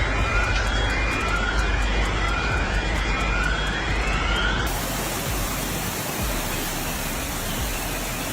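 Loud, steady rushing noise of a severe storm, with a series of short rising whistles about once a second in the first half; the rush brightens a little after about five seconds.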